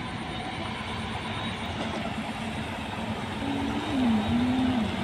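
Heavy road traffic: trucks driving past with a steady engine drone and road noise. The level rises and the engine pitch dips near the end as a vehicle comes closer.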